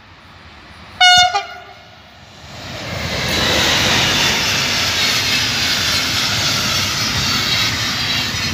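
A train sounds a short, high horn blast about a second in, then passes close by with a loud, steady rushing rumble that builds up over a second or so.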